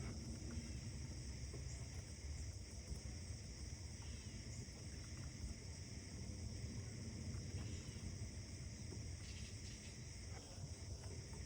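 Early-morning outdoor ambience: a steady low rumble under a steady high hiss, with a few faint, short bird chirps about four seconds in, near the middle and toward the end.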